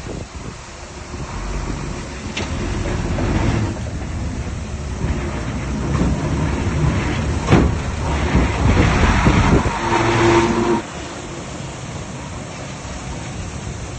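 Heavy diesel earthmoving machinery working, engine running hard with rattling and clanking, and a sharp knock about halfway through. The loudest engine noise cuts off suddenly about three quarters of the way in, leaving a lower steady rumble.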